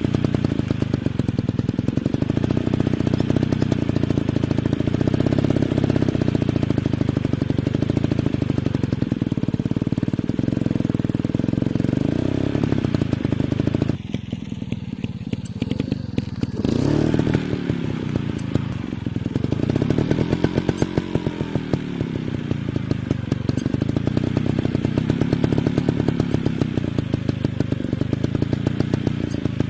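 Motocross dirt bike engine running hard, revving up and down repeatedly. Roughly halfway through it eases off for a couple of seconds, then picks up again.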